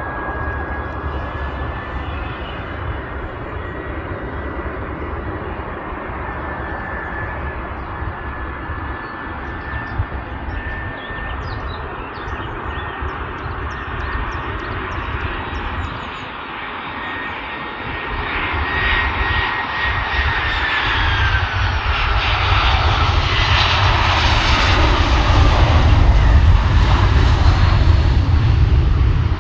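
Airbus A320 jet engines on landing approach: a steady high whine over a broad roar. The roar grows louder over the last ten seconds as the plane passes close by, and the whine falls in pitch after about twenty seconds.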